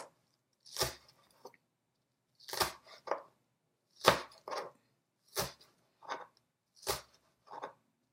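Kitchen knife chopping green onion on a cutting board: sharp knocks about every second and a half, most followed by a lighter knock.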